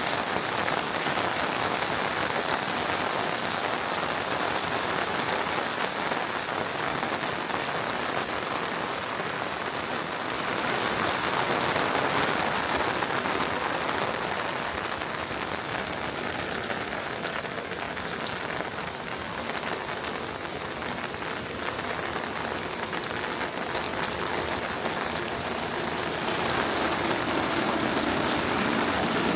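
Steady rain falling, a dense patter of drops over an even hiss, growing a little louder about a third of the way through.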